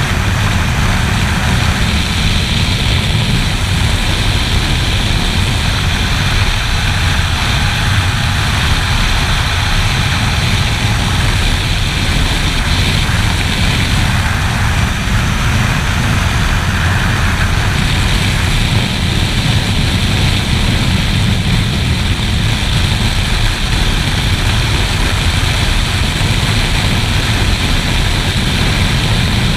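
A sport motorcycle running at a steady pace, its engine drone mixed with loud wind roar on the camera microphone.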